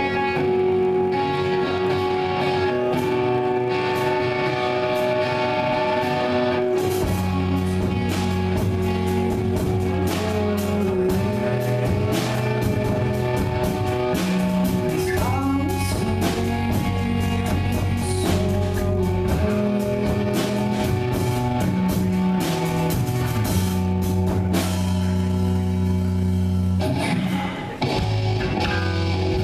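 Live rock band playing a song: a guitar alone at first, then bass and drum kit come in about seven seconds in and the full band plays on.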